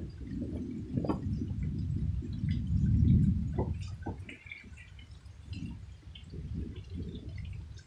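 Rain dripping and pattering in scattered small drops, under a low rumble that swells about three seconds in and then fades.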